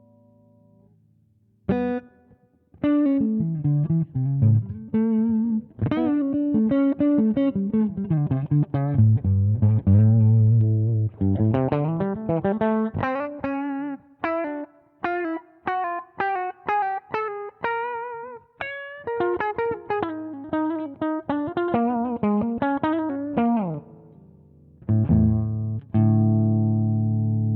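Electric guitar played through the Zander Circuitry Surplus overdrive pedal: a line of picked single notes with some bends and vibrato, ending on a chord left to ring.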